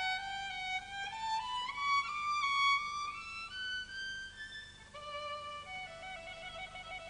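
Background music: a violin playing a melody, climbing step by step over the first few seconds, then holding lower notes with vibrato.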